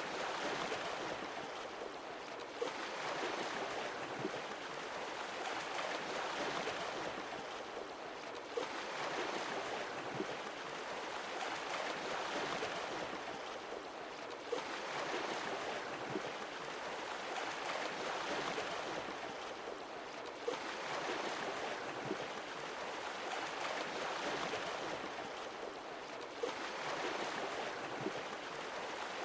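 Sea waves washing ashore, each one swelling and then drawing back, about every six seconds.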